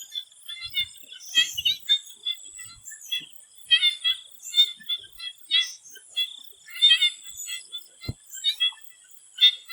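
A chorus of swamp frogs calling, short repeated notes from several frogs overlapping about every half second, over a steady high-pitched drone. A single soft knock sounds near the end.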